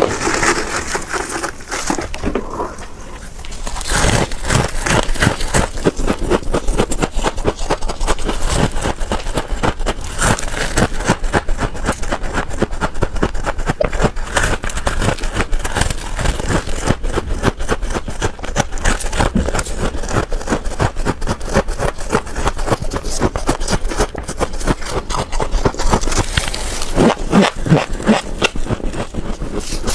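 Freezer frost ice crunching and crackling close to the microphone: a dense, unbroken run of small cracks, with a brief quieter pause about two seconds in.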